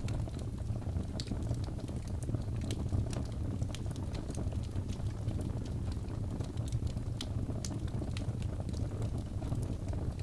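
Crackling fire: irregular small pops and snaps over a steady low rumble.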